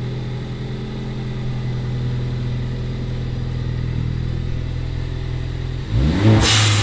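2016 Ford Focus ST's turbocharged 2.0-litre EcoBoost four-cylinder, fitted with an aftermarket exhaust, idling steadily. Near the end it is blipped once, the pitch rising, and a short sharp hiss follows as the aftermarket blow-off valve vents.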